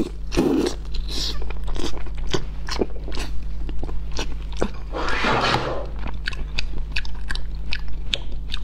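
Close-miked biting and chewing of a whole sauce-braised eel: wet mouth sounds made of many short clicks, with a longer, louder rush of noise about five seconds in. A steady low electrical hum runs underneath.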